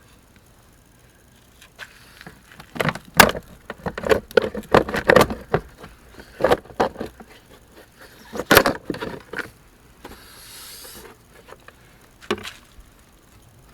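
Irregular knocks and clatters in a busy run of a few seconds, then a short hiss about ten seconds in and one last knock near the end.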